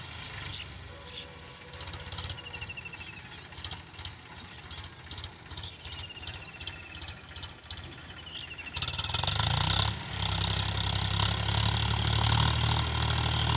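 Tractor diesel engine running slowly with an even pulsing beat, then speeding up sharply about nine seconds in and holding loud and steady at the higher speed.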